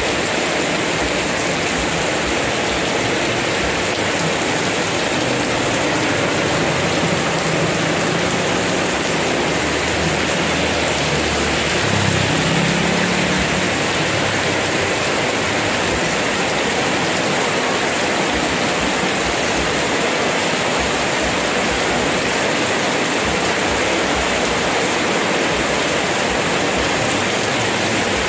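Heavy rain pouring steadily. A faint low hum swells and fades around the middle.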